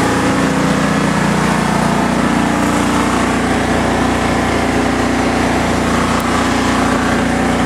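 The engine of a 1990 engine-driven welding machine running steadily at speed, held up by the load of the work light it is powering.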